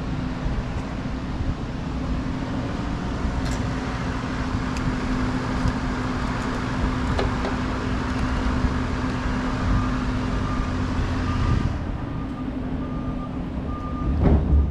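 A vehicle engine runs steadily with a constant low hum. From about two thirds of the way in, a backup alarm starts beeping at roughly one beep a second.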